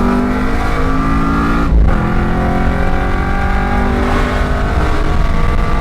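Car engine at full throttle, accelerating hard: its pitch climbs through a gear, drops at an upshift about two seconds in, climbs again and shifts once more around four seconds in.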